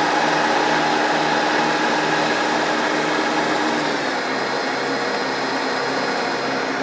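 Massey Ferguson tractor engine running steadily, its speed dropping a little about four seconds in.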